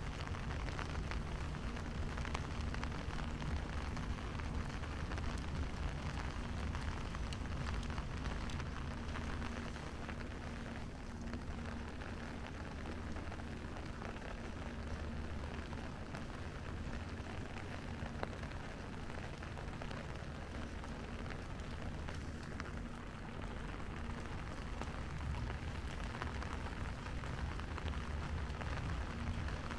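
Steady rain falling, heard as an even hiss over a low, steady rumble. A faint hum sits underneath for roughly the first ten seconds.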